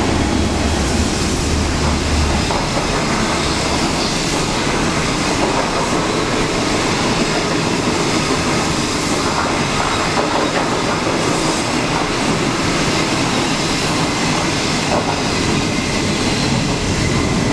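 Passenger coaches of a diesel-hauled train passing at speed: a steady loud rumble and clatter of steel wheels on the rails. A low drone from the DF11 diesel locomotive's engine, just gone by, lasts for the first two seconds or so.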